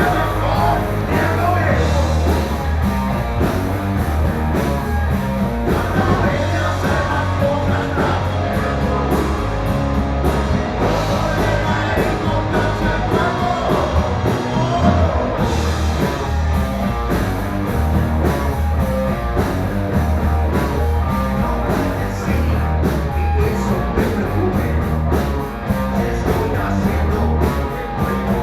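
Rock music with singing over a steady bass line and band.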